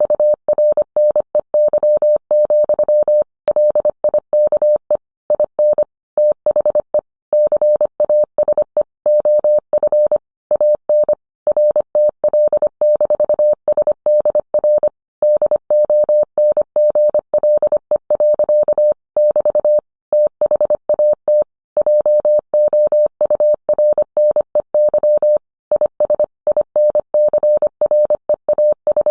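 Morse code: a single steady tone keyed on and off in quick dots and dashes, with short pauses between words.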